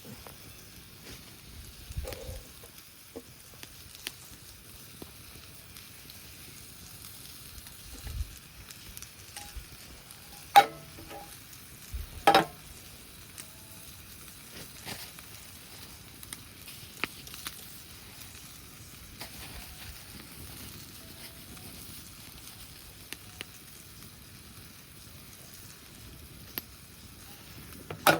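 Food sizzling over a campfire: a steady hiss with scattered small crackles, and two sharp clacks about ten and twelve seconds in.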